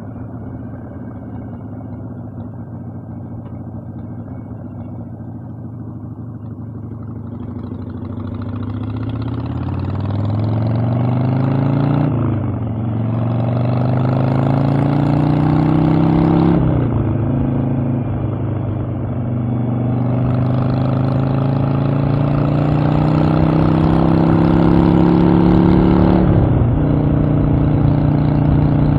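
Harley-Davidson Evolution V-twin engine heard from the rider's seat. It runs steadily at first, then accelerates from about eight seconds in, its pitch rising and falling back sharply with each of three upshifts.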